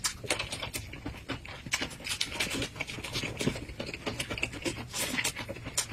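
A person chewing a mouthful of fresh lettuce wrap, with many small irregular crunching clicks.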